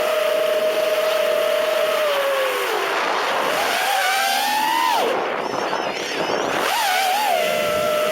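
FPV racing quadcopter's four brushless motors (Emax RS2205s 2300kv) whining at a steady pitch, which dips about two and a half seconds in, climbs, drops sharply around the middle and climbs back near the end as the throttle changes.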